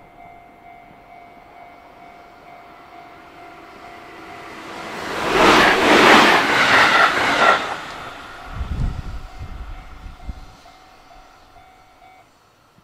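Electric passenger train passing close at speed: the rush of wheels and air builds over a few seconds, is loudest about six seconds in, and fades. About two seconds later a short low rumble of wheels follows.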